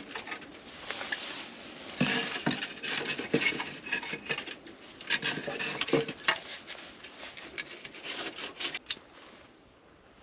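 Split firewood and birch bark being handled and stacked into a wood stove: irregular knocks and clatter of wood on the stove, with rustling, stopping about nine seconds in.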